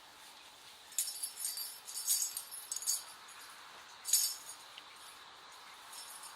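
Light, high-pitched clinking: a quick run of small clinks about one to three seconds in, and one more at about four seconds.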